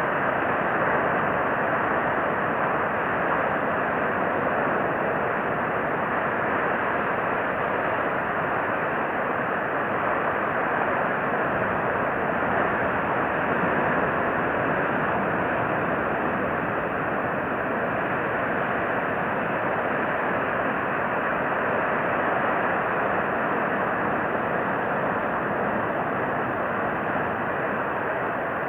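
Steady, even rushing noise with no distinct events or calls.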